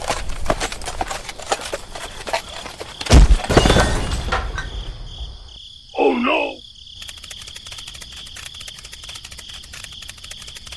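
Rural insect ambience: crickets chirring in a steady high trill of rapid ticks. A loud thump comes about three seconds in, and a short call that rises and falls comes about six seconds in.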